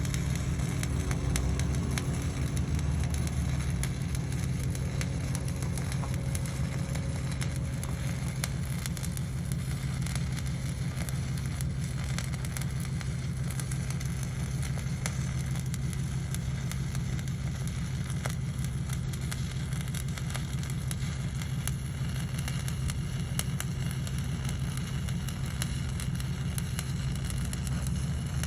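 Stick welding with a 1/8" 7018 electrode at about 124 amps: a continuous crackling arc with no break, over a steady low hum.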